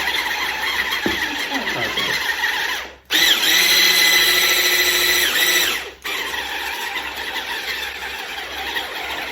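Electric mixer with a whisk attachment beating batter, its motor running with a steady whine. It cuts out briefly about three seconds in, runs louder for about three seconds, cuts out again and runs on. The mixer is struggling on its low setting.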